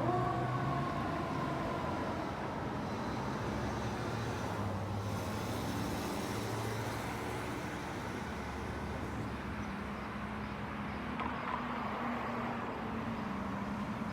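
A fire truck's siren fades away in the first second or so, leaving the steady low rumble of engines and road traffic.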